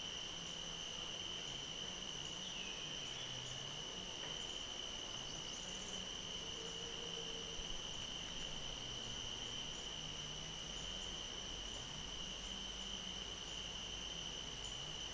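An insect chorus trilling steadily: one unbroken, high-pitched drone. A couple of brief bird chirps come a few seconds in, over a faint low hum that wavers up and down.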